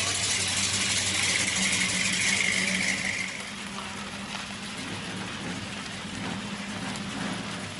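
A car engine idling steadily, with a louder rushing noise over it for about the first three seconds that then drops away.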